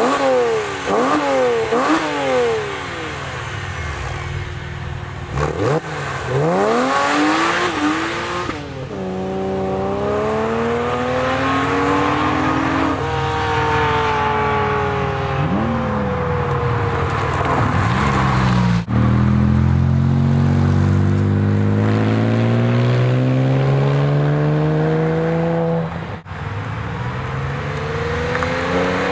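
Porsche 997 Carrera flat-six exhaust through aftermarket mufflers. It revs in quick up-and-down blips at first, then accelerates in long rising pulls, with a sharp break in the sound twice.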